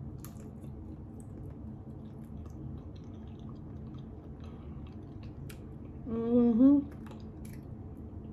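Close-up eating sounds of someone chewing fried chicken, with scattered small mouth and finger clicks. About six seconds in there is a short hummed "mmm" of enjoyment whose pitch rises at the end.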